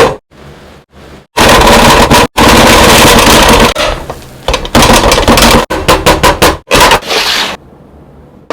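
Kottu roti being chopped on a hot griddle with metal blades: a rapid, loud clatter of strokes with sizzling, in several bursts that cut off suddenly.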